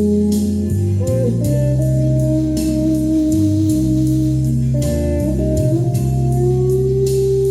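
Instrumental music: a guitar lead playing held notes with slides between pitches over a backing track of bass and steady drum hits.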